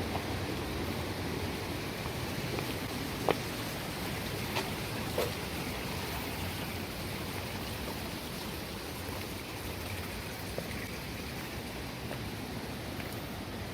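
Steady rush of flowing stream water, with a few short clicks about three, four and a half and five seconds in.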